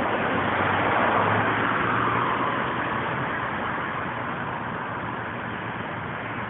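A car passing on a street: engine and tyre noise swells to its loudest about a second in, then slowly fades away.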